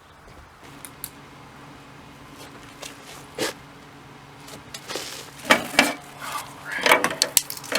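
Metal and hand tools being handled: scattered clinks, knocks and clicks, several in quick succession near the end, over a steady low hum.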